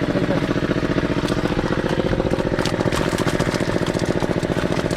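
Small engine running steadily with an even, rapid pulse.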